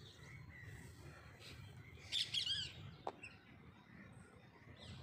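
Faint bird chirping: a short run of wavy chirps about two seconds in, then a single quick falling note, over a low background hum.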